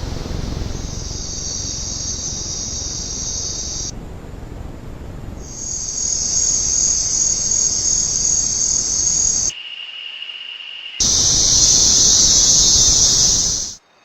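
Night insect chorus, a steady high-pitched shrill buzz. It drops out and returns abruptly several times as the recording cuts between spots. For a moment near the middle-end a lower-pitched steady insect trill replaces it.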